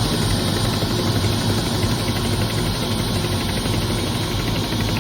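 Helicopter engine and rotor running, a loud, steady drone with a strong low hum.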